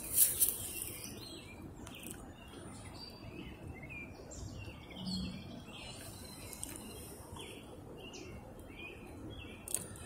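Small songbirds chirping and calling, a scattering of short high notes that keeps up throughout, over quiet outdoor background noise, with a brief rustle of movement at the start.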